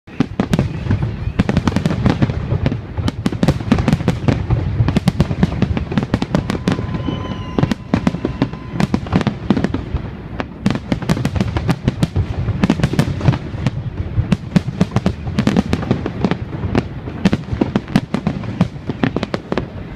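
Fireworks going off in rapid succession: many sharp bangs and crackles over a continuous low rumble.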